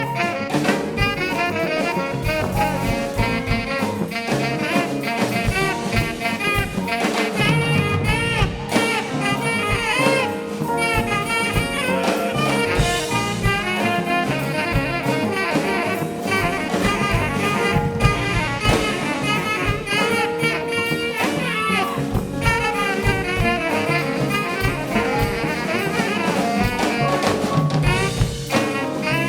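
Live band playing jazz, with a steady beat throughout.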